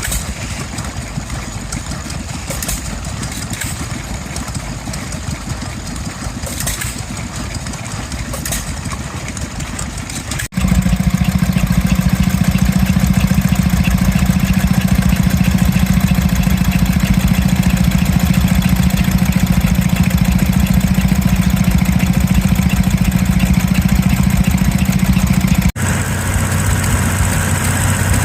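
Vintage engines running steadily. About ten seconds in the sound switches abruptly to a louder engine with a strong steady hum and fast even beats, and near the end it switches again to another engine with a lower hum.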